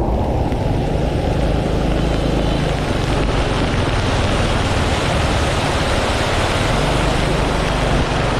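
Steady wind rumble on a motorbike-mounted action camera's microphone while riding in the rain, with the motorbike's engine and a hiss of rain and wet road running underneath.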